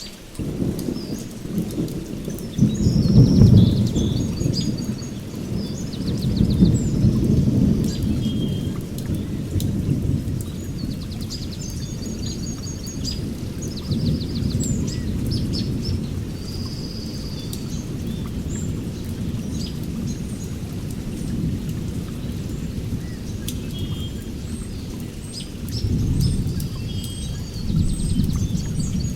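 Heavy forest rainstorm with rolling thunder: a deep rumble swells in about a second in, is loudest a few seconds later, and keeps rolling with another swell near the end, while rain patters and birds keep up short chirping calls.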